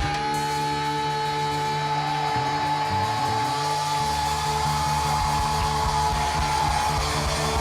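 A band playing an instrumental passage between sung lines, with one long held high note that ends near the end.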